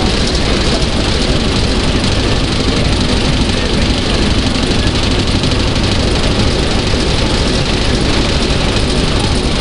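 Diesel locomotive engine idling steadily, a deep, even hum with no beat or change.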